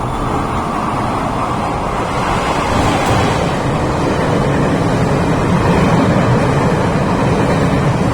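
Chu-Kuang express passenger train passing through a station: a steady rumble of wheels on rail, growing louder from about three seconds in.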